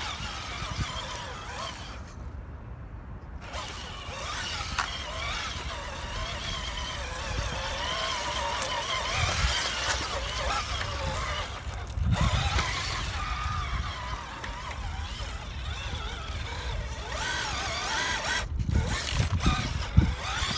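Electric motor of a small off-road RC car whining, its pitch rising and falling as the throttle changes while it drives over rough ground, over a steady low rumble.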